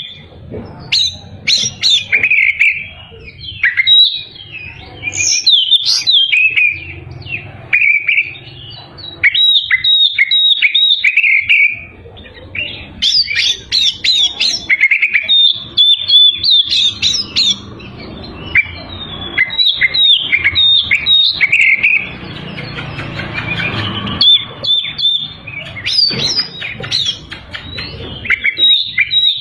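Oriental magpie-robin (kacer) singing vigorously: a fast run of sharp whistles, chirps and trills in phrases broken by short pauses. A low background rush sits under the song for a few seconds in the second half.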